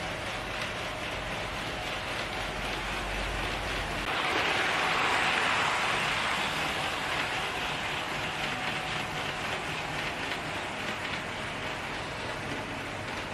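HO-scale Tomix 115 series model train running on the layout track: a steady rolling noise of its wheels on the rails, growing louder about four seconds in and easing off over the next few seconds as it passes closer.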